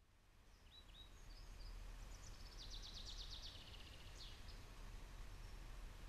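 A songbird singing faintly: a few short chirps, then a rapid trill lasting about a second, over a low steady rumble.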